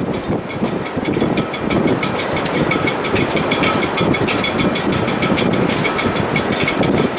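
Wind in a sailboat's shrouds and rigging in heavy weather: a dense, steady rush of wind with faint whistling tones from the stays and a rapid light ticking.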